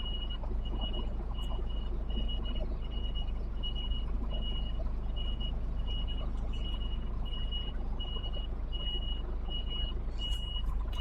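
Lorry reversing alarm beeping steadily, about two high-pitched beeps a second, as the truck and trailer back slowly, over a low steady rumble.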